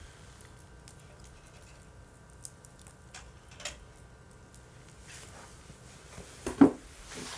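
Wood campfire crackling: scattered small snaps over a faint steady background, with one louder, deeper crack about six and a half seconds in.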